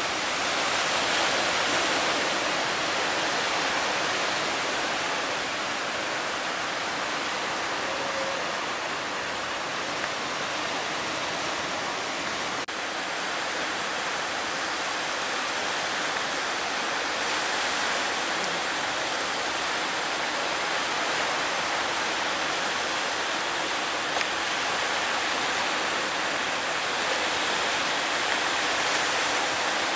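Breaking sea waves at a river mouth, a steady rushing wash of surf with no single wave standing out.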